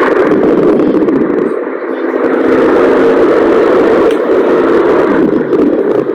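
Electric table fan running, a steady loud rush of air with a faint motor hum.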